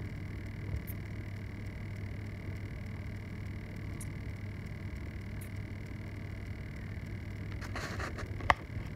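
Car engine idling with a steady low hum. A short rustle comes near the end, followed by a single sharp click.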